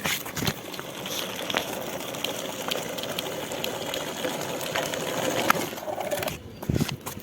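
Small DC motor of a homemade cardboard RC car running, a steady gritty whirr with scattered clicks, cutting off about six seconds in, followed by a few short knocks.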